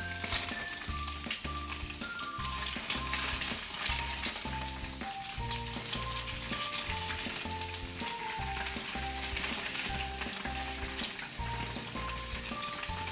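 Slices of egg tofu sizzling as they fry in oil in a nonstick wok, turned over with a silicone spatula. A light background music track with a melody and a steady bass pulse plays throughout.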